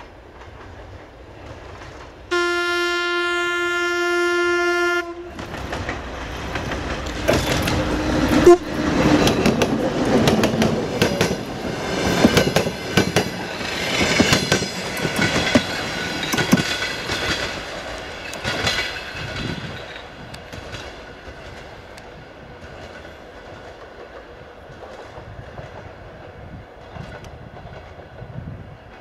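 A TEP70 diesel passenger locomotive sounds one long, steady horn blast of about three seconds. It then passes close by with its 16-cylinder diesel engine running, and its passenger coaches follow with a rapid clickety-clack of wheels over rail joints. The noise fades after about twenty seconds as the train moves away.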